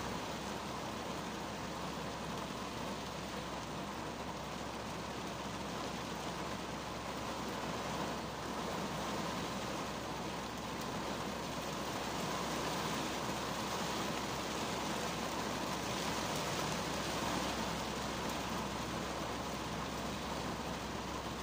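Rain falling steadily on a 2010 Kia Cerato's windshield and body, heard from inside the car's cabin as an even hiss.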